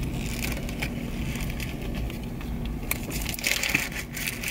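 Close-miked chewing and biting of In-N-Out burgers with lettuce: crisp crunches and mouth sounds, busiest about three seconds in, over a steady low hum.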